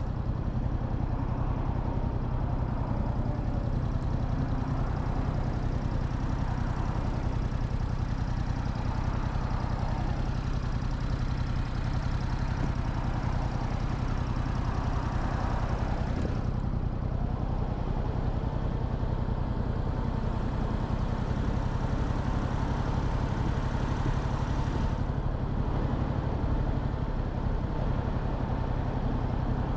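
Motorcycle engine running with road and wind noise. A little past halfway the road noise drops away, and the engine settles into a steady idle.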